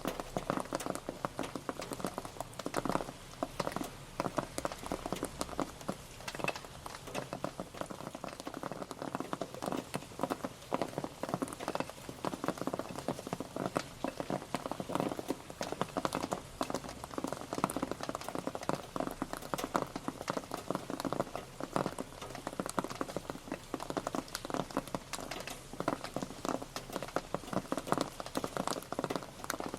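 Steady rain pattering, a dense stream of drops striking a surface.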